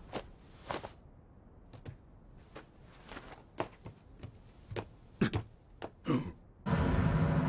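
Sparse, irregular sharp knocks and taps over a low hiss, then music cuts in abruptly and loudly near the end.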